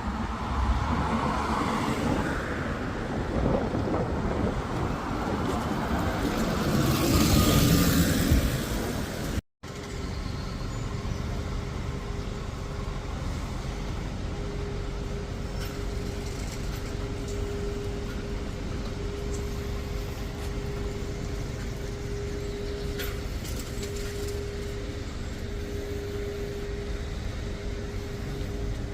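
Buses and road traffic passing on a street. The noise swells about seven seconds in and ends in a hiss like a bus's air brakes. After a sudden break comes a steady engine hum with a constant whine.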